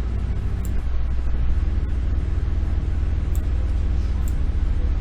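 Steady low rumble, with a few faint short clicks at about 0.7, 3.4 and 4.3 s.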